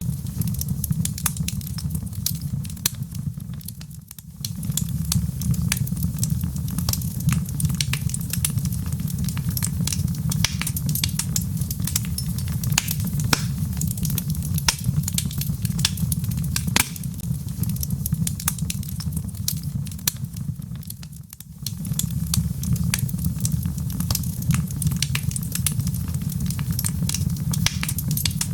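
Log fire in a fireplace crackling, with frequent sharp pops and snaps over a steady low rumble of the flames. The rumble briefly drops away twice, about four seconds in and again past the twenty-second mark.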